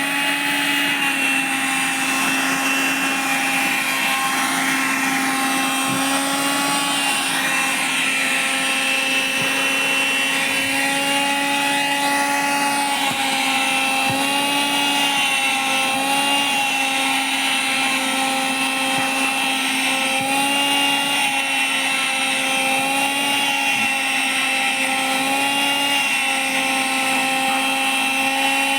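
Vacuum cleaner running continuously with a steady motor whine and hiss, its pitch wavering slightly as fabric is drawn against the nozzle.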